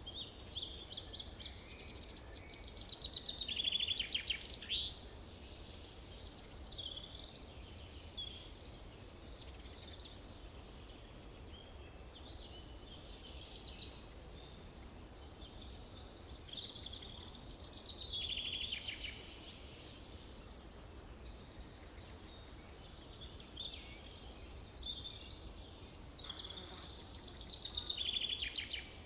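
Several songbirds singing and calling at once in a forest, with overlapping chirps and rapid trills that swell louder about three seconds in, around the middle and again near the end. A faint steady low hum runs underneath.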